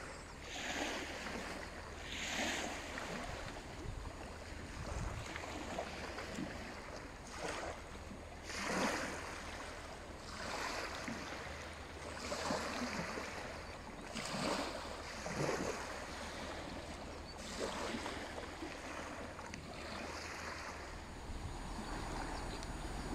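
Small waves lapping and splashing on the shore every second or two, over a steady low rumble of wind.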